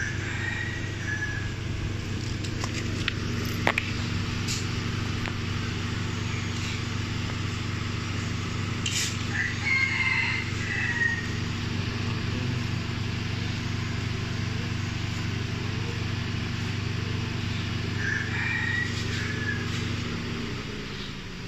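Car engine idling with a steady low hum that winds down near the end. A rooster crows three times in the background.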